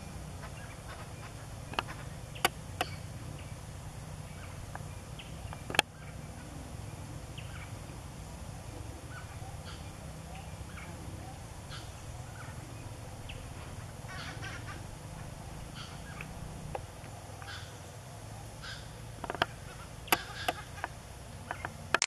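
Scattered short calls of wild birds over a steady low rumble, with a few sharp clicks, the loudest a little before and near the end.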